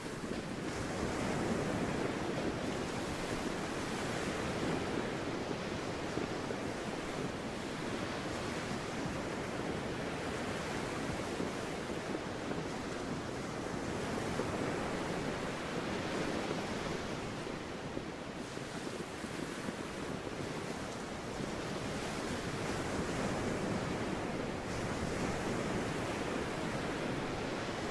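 Sea surf washing steadily, with some wind over it; the rush swells and eases every few seconds.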